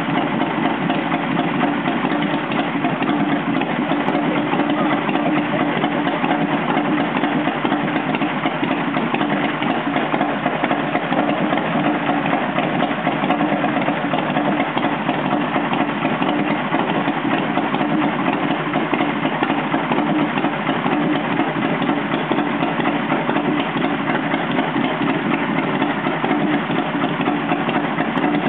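Harley-Davidson V-twin motorcycle engine idling steadily, with no revving.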